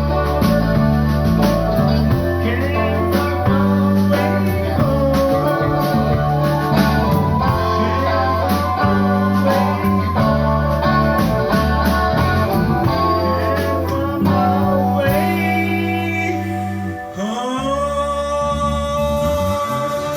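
Live blues band playing, with electric guitar over a steady bass line. About 17 seconds in the music drops briefly, then comes back on a long held note that slides up into pitch.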